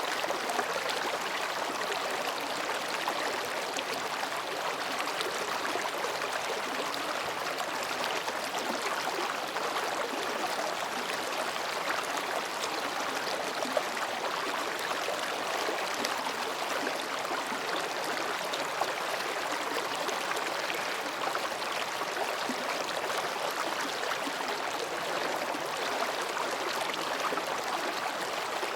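Mountain stream babbling between rocks, a steady, even rush of water.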